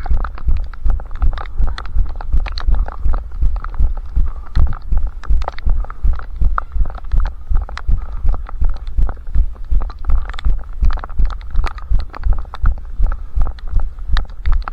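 Running footsteps heard through a head-strapped camera: a steady rhythm of low thuds about three a second, each with a sharp click on top.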